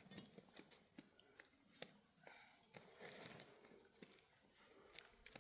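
A cricket trilling: a high, steady note made of rapid, even pulses.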